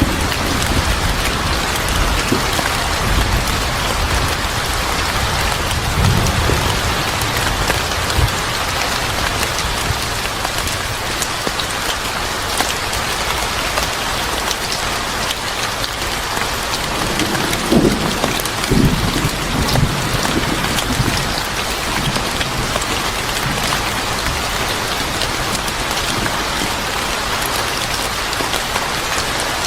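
Steady heavy rain falling on a surface, with low rumbles about six seconds in and again around eighteen seconds.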